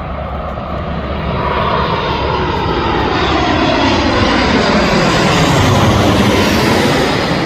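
An airliner's jet engines passing close by, growing steadily louder to a peak near the end, with a sweeping, falling pitch as it goes past.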